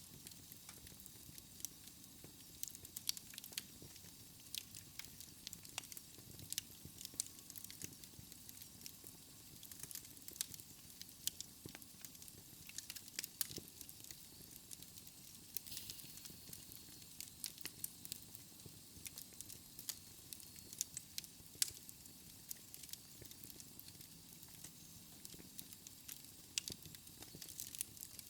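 Wood fire burning in a fireplace: a soft steady hiss under many irregular sharp crackles and pops.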